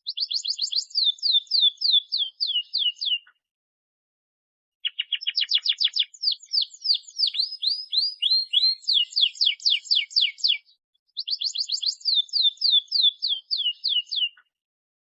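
Domestic canary singing: three phrases of rapid, repeated downward-sweeping whistled notes and trills, separated by two brief pauses.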